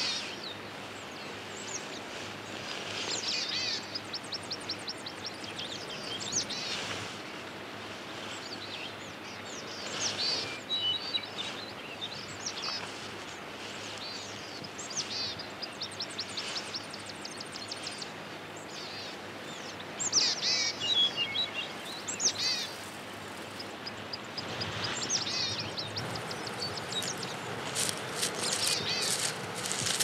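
Birds chirping and trilling in short high phrases every few seconds, over a steady hiss of forest ambience.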